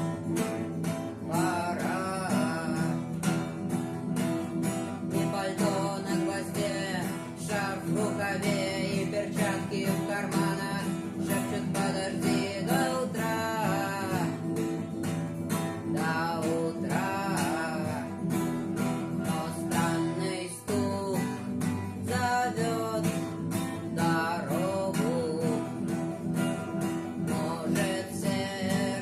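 Music: an acoustic guitar strummed in a steady rhythm, with a wavering melody line over the chords, as in a cover of a rock song. There is a short break in the strumming about two-thirds of the way through.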